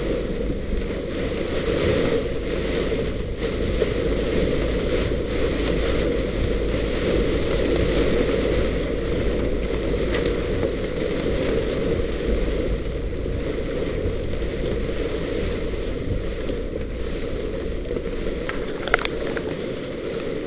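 Steady, dense rain drumming on a car's body, a continuous patter of many small impacts.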